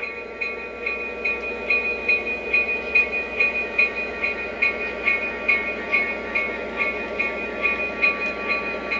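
Model train running on the layout: a steady whine with a regular clicking pulse a little over twice a second.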